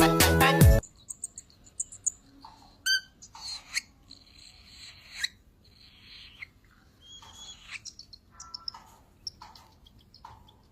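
Music stops less than a second in, followed by a baby parrot giving scattered short chirps and squeaks at irregular intervals.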